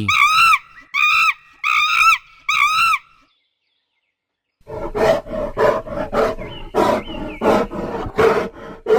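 Monkey calls: a run of high, arched calls about one every 0.8 seconds. After a short silence comes a louder series of harsher calls, about two a second.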